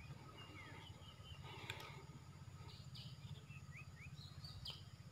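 Faint birds chirping, in short high calls and quick rising notes, over a steady low outdoor rumble, with a faint click about two seconds in and another near the end.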